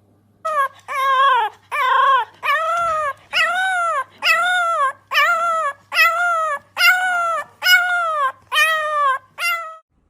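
A dog howling and whining in a steady series of about eleven calls, roughly one a second, each call rising and then falling in pitch.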